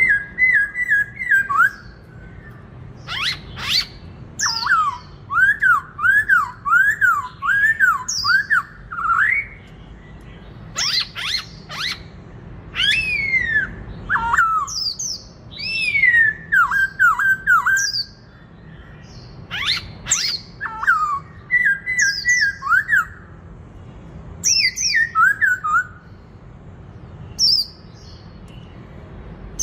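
Black-throated laughingthrush singing: phrases of quick, repeated whistled notes that swoop up and down, mixed with sharp high notes that fall in pitch, coming in bursts a few seconds long with short pauses between.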